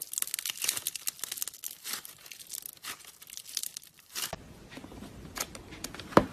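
Slime being squeezed and stretched, giving dense rapid crackling and popping that stops abruptly about four seconds in. A few scattered clicks follow, then one sharp click near the end.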